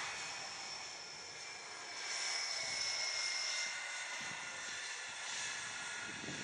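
C-17 Globemaster III jet engines running: a steady rush with a thin high whine, one tone drifting slightly lower partway through.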